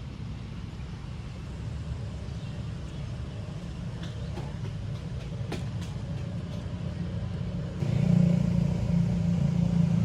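Low rumble that slowly grows louder and steps up sharply about eight seconds in, with a few faint ticks.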